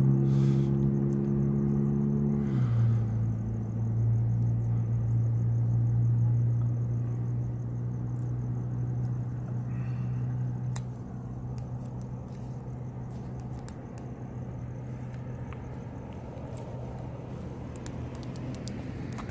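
A motor vehicle's engine running close by with a steady hum that drops in pitch in one step about two and a half seconds in, then slowly fades.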